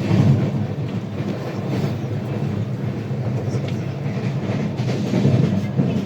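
Passenger train running on the rails: a steady low rumble of wheels on track with a few faint clicks from rail joints.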